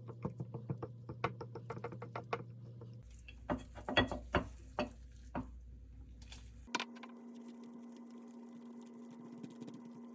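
Quick light clicks, about five a second, like typing on a computer keyboard. After a cut come a handful of sharp knocks and clatters, and after another cut a steady mechanical hum with one held tone.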